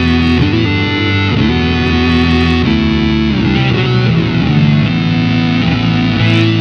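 Electric guitar played through an EarthQuaker Devices Data Corrupter PLL synth/harmonizer pedal. It gives fuzzy, synth-like sustained notes with stacked harmonies, and the pitch changes every second or so.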